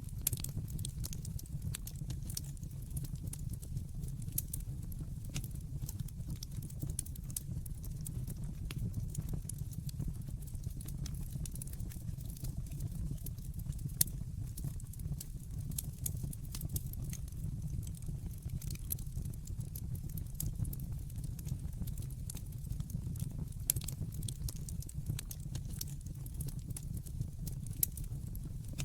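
Wood fire burning in a fireplace, crackling with frequent small, irregular pops over a steady low rumble. A couple of sharper pops stand out, one about halfway through and one near the end.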